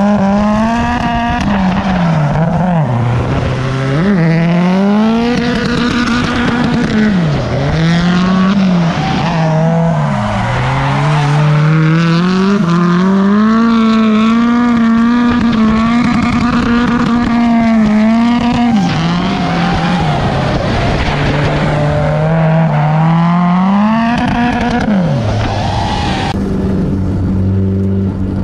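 Turbocharged Honda K24 four-cylinder engine in a drifting Nissan Cefiro, revving hard and repeatedly: the pitch climbs, holds at the top, dips and climbs again, over the squeal of spinning rear tyres. Near the end the sound settles to a steadier, lower engine note heard from inside the car.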